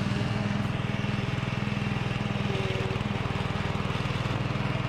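An engine running steadily at an even speed, with a rapid, even beat.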